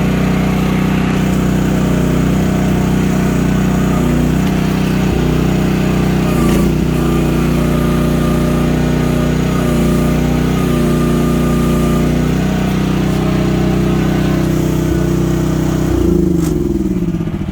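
Mini excavator's pull-started engine running steadily. Near the end it is shut off, and its pitch falls as it winds down.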